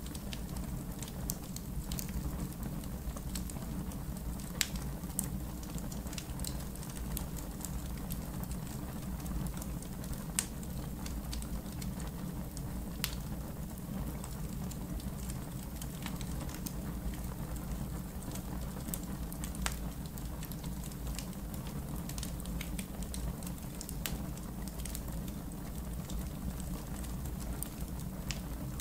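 Campfire in a fire pit crackling: scattered sharp pops and snaps over a steady low rumble, with a few louder pops about 5, 10 and 13 seconds in.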